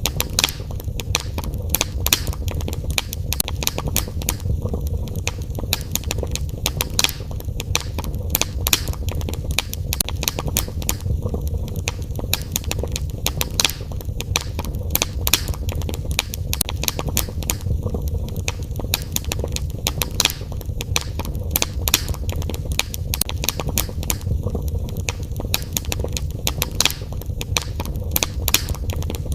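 Fire burning in a fireplace, crackling and popping constantly with several sharp snaps a second over a steady low noise of the flames.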